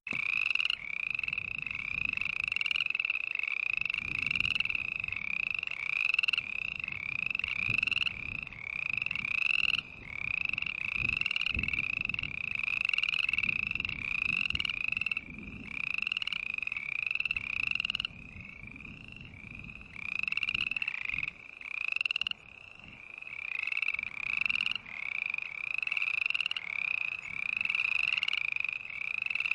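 Frogs croaking: a steady run of short, high, repeated calls, about two a second, with a couple of brief lulls.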